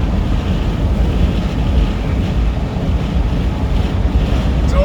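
Steady low rumble of a truck driving on the road, heard from inside the cab, with wind buffeting the microphone.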